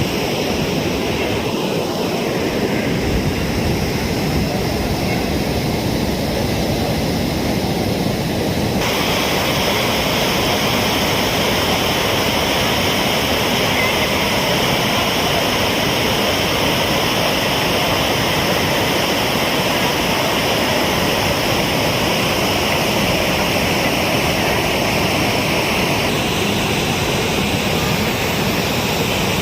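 Steady rush of water pouring out of an overflowing irrigation tank.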